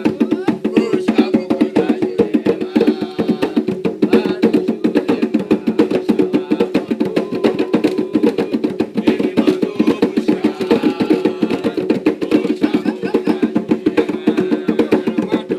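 Ritual percussion music: drums and other percussion played in a fast, dense, steady rhythm.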